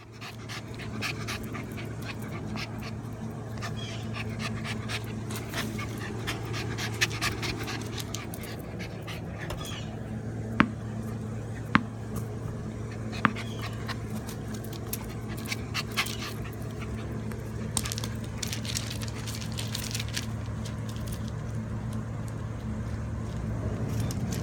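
Puppies panting, with a few sharp clicks about a second apart near the middle, over a steady low hum.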